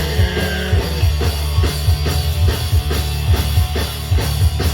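Punk rock band playing at full volume: drum kit keeping a fast, even beat under distorted guitar and bass, with a last sung word near the start and then instrumental playing.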